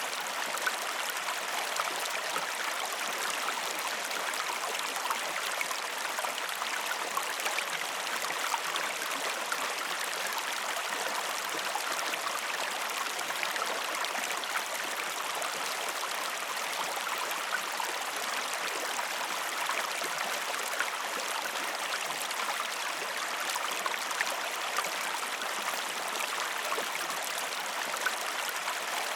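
River water flowing: a steady, even rush of running water that does not change.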